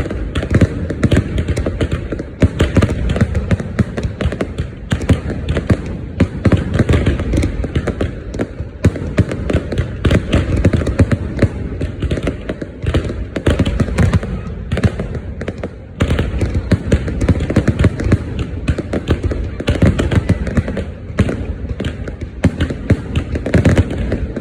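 Fireworks going off in a dense, unbroken barrage: many overlapping bangs and crackles with no pause, the low booms heaviest.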